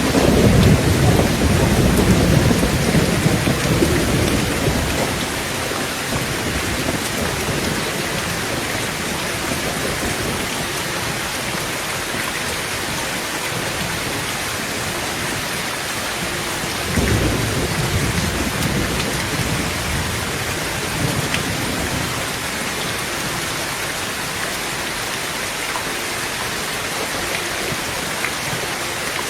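Heavy rain falling steadily on a tin tent roof, with low rolls of thunder: one fading away over the first few seconds and another starting about 17 seconds in.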